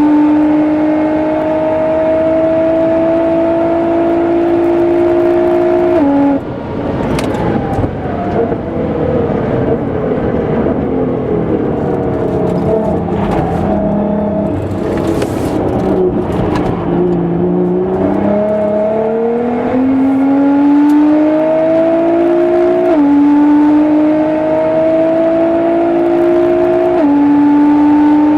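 Tuned Nissan GT-R R35's twin-turbo V6 at full throttle on track: it pulls up through the gears with a sharp drop in pitch at an upshift, then lifts. The note falls and gets rougher through a braking stretch with sharp clicks, then climbs hard again out of the corner with two more quick upshifts.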